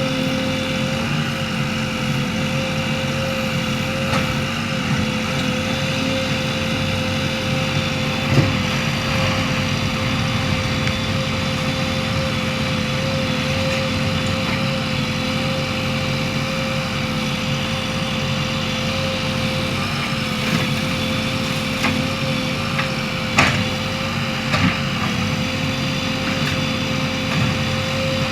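JCB 3DX backhoe loader's diesel engine running steadily under work, with a steady whine over it and a few short knocks, the sharpest about 8 and 23 seconds in.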